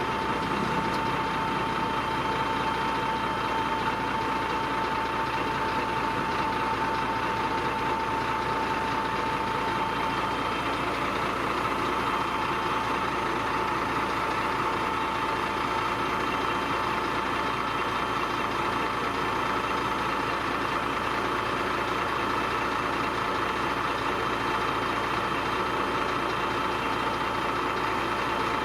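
Diesel engine of heavy earthmoving machinery running steadily, with a thin steady whine that fades out about ten seconds in.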